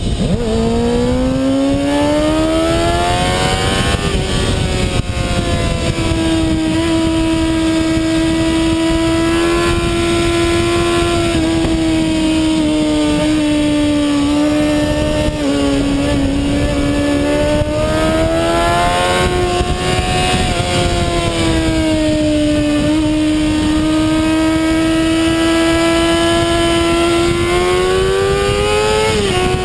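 2007 Kawasaki ZX-6R inline-four running hard at high revs over a steady rush of noise. The engine note climbs over the first few seconds, holds high for long stretches with small dips and rises, then climbs again near the end and drops sharply at a shift.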